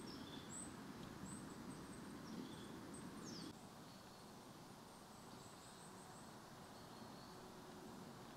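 Faint, thin, high-pitched chirps of small birds, scattered short notes with one quick falling note a little past three seconds in, over a soft low rustle that drops away about halfway through.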